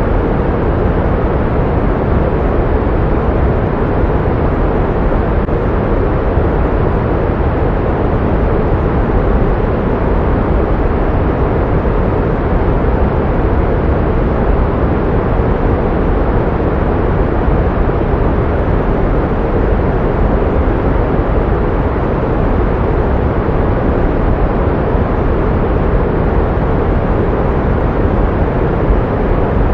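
Steady, unbroken pink noise: an even rushing hiss, fuller in the low end, used as a sound-therapy masker for tinnitus.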